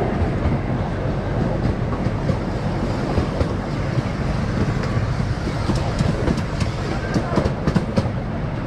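Small park train running along its narrow track, heard from aboard: a steady low rumble of the cars, with a run of sharp clicks from the wheels on the rails near the end.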